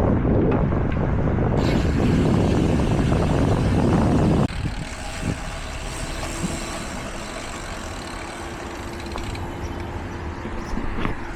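Wind rushing over the microphone of a bike ride at speed, cutting off abruptly about four and a half seconds in. What is left is the quieter, steady rumble of road traffic.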